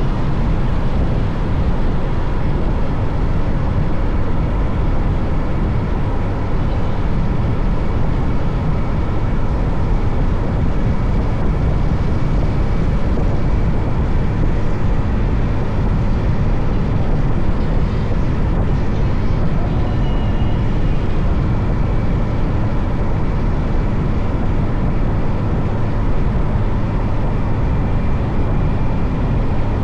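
Steady noise of a motorcycle on the move: wind rushing over the microphone and the engine running, with no let-up. A faint high tone is heard briefly about twenty seconds in.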